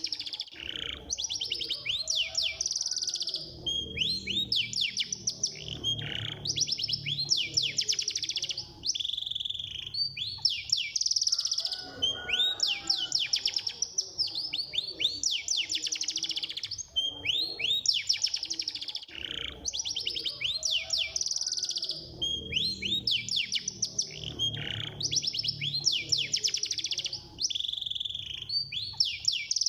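Domestic canary singing a fast, dense song of rapid repeated trills and sweeping notes, high-pitched and almost unbroken. This is a 'speed' canary master song, played to provoke other canaries into answering.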